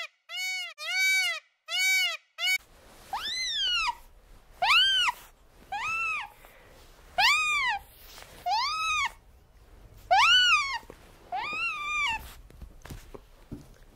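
Short, high whining animal calls, each rising and then falling in pitch: four quick ones close together, then, over faint outdoor background, seven more spaced about a second and a half apart that stop about two seconds before the end.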